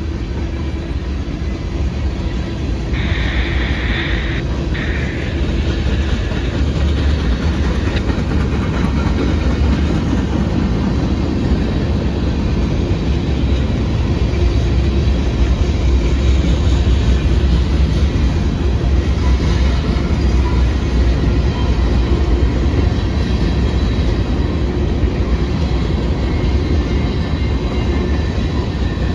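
A train rolling past: a steady rumble of railcar wheels on the rails, growing louder over the first few seconds. There is a brief higher hiss about three seconds in.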